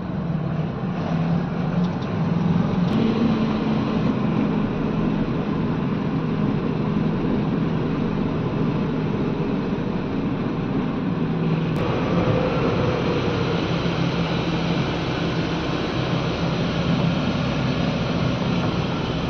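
Hydraulic excavator's diesel engine running steadily under load while loading a truck, with an abrupt shift in the sound about twelve seconds in.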